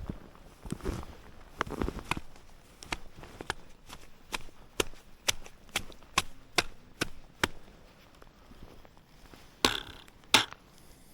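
Snowshoe steps in deep fresh snow: soft crunches at first, then a run of sharp clacks about three a second, and two louder crunching steps near the end.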